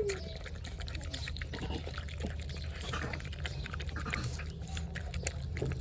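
Puppies eating, with many quick wet smacking and slurping clicks.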